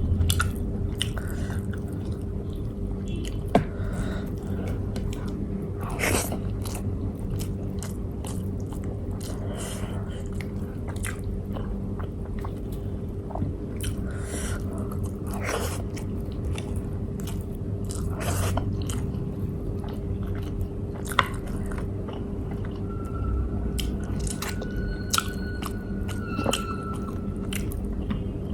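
A person chewing and biting food close to the microphone, with scattered short wet mouth clicks, over a steady low background hum.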